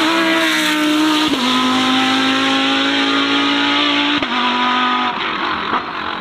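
Racing car engine under hard acceleration, shifting up through the gears. Its note drops sharply at an upshift about a second in and again about four seconds in, then fades away near the end.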